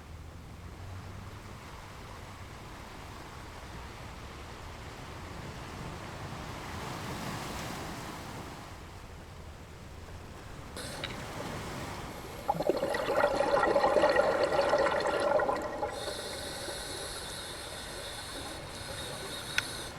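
Ocean waves washing softly on a beach. About twelve seconds in, a louder rush of water comes in for a few seconds, then eases into lighter splashing and trickling water.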